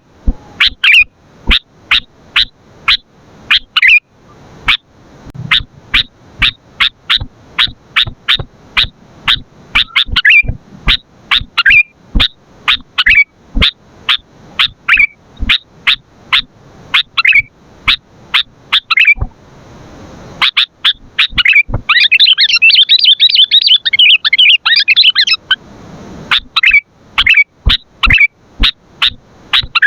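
Sooty-headed bulbul (kutilang) calling over and over in sharp chip notes about two a second, with a short bending whistle every couple of seconds. About two-thirds of the way in comes a dense, rapid chatter lasting some three seconds.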